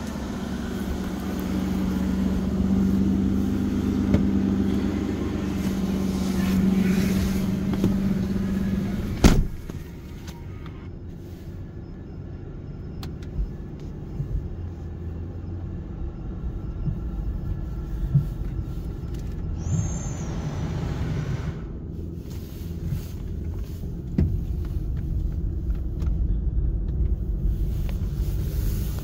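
Aston Martin DB9's V12 engine idling steadily, heard from outside the car. A car door shuts with a sharp thump about nine seconds in, after which the engine is heard muffled from inside the cabin, its low rumble growing as the car moves off near the end.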